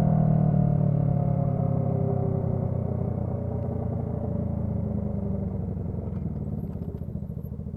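Honda CB125T's parallel-twin engine running at low revs through a loud muffler, getting steadily quieter as the bike slows, with a regular low pulsing beat near the end.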